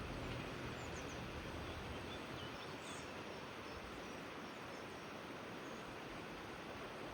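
Steady rush of river water, with a few faint, short bird chirps about a second and three seconds in. A low rumble fades away in the first second or so.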